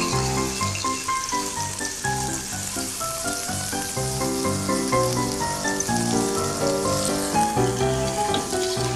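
Fish frying in hot oil in a small clay pot, a steady sizzle, heard under instrumental background music with a melody of short stepped notes.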